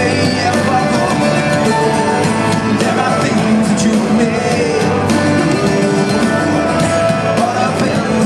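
A three-piece rock band playing live, with singing over the instruments.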